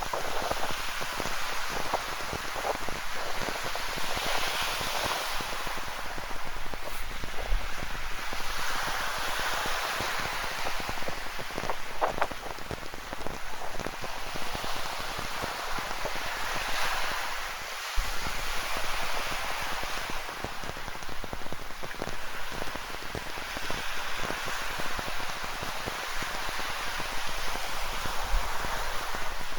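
Rain falling, with many close drops ticking, over the wash of ocean surf that swells and fades every few seconds.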